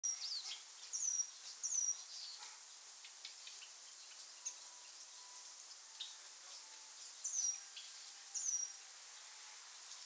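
Birds calling in a forest: a short, high call that drops in pitch comes four times, in two quick pairs, among scattered fainter chirps, over a faint steady hiss.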